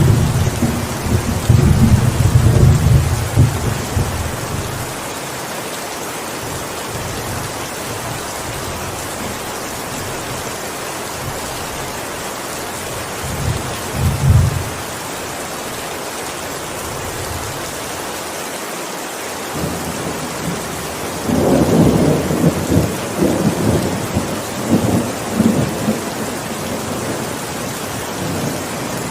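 Steady heavy rain with rolls of thunder: a long low rumble at the start, a short one about fourteen seconds in, and another series of rumbles from about 21 to 26 seconds in.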